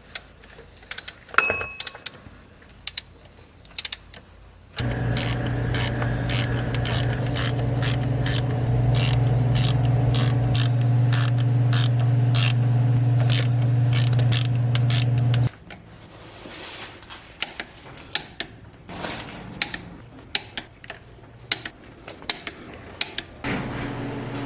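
Hand ratchet clicking in runs of quick strokes. A steady low machine hum joins about five seconds in and cuts off suddenly partway through.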